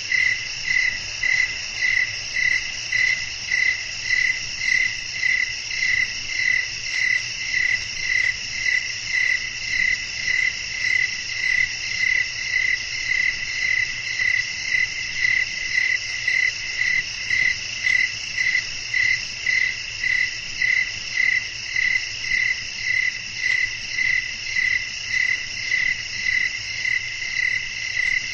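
Night chorus of crickets: one chirp pulsing evenly about twice a second, over a steady higher insect trill.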